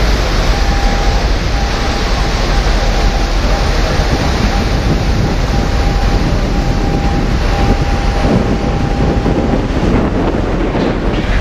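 Steady rush of wind and sea on board a moving passenger ferry, with wind buffeting the microphone over a low rumble. A faint thin whine runs through most of it and stops near the end.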